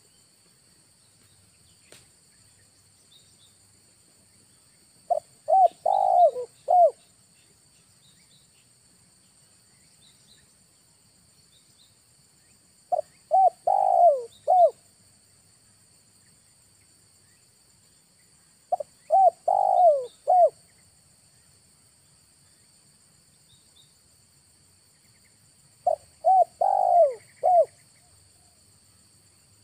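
Spotted dove cooing, a decoy bird calling to lure wild doves. Four phrases come about seven seconds apart, each a short run of four or five coo notes.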